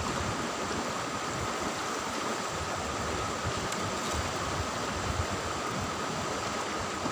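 River water flowing, a steady even rush with no distinct events.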